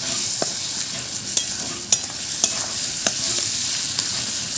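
Spice paste and chopped tomatoes sizzling in hot oil in a pan, while a spatula stirs them, clinking against the pan about every half second.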